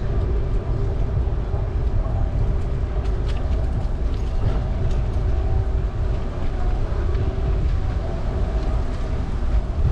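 Steady low rumble of wind buffeting the microphone and of tyre noise during a bicycle ride, continuous throughout.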